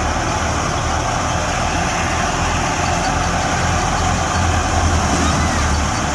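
Fiat 480 tractor's diesel engine running steadily under load, driving a wheat thresher, with the thresher's steady mechanical noise mixed in.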